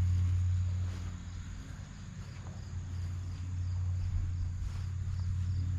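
Crickets chirping steadily over a constant low hum.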